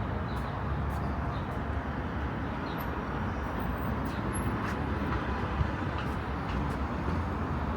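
Steady road traffic noise with a low rumble, and faint light ticks scattered through it.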